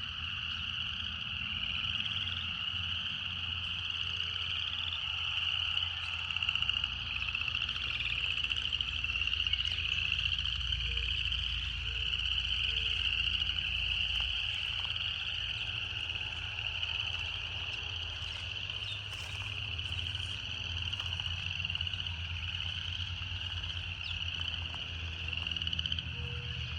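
Cicadas singing in a continuous, high, slightly pulsing buzz, with a few short low notes from another animal now and then.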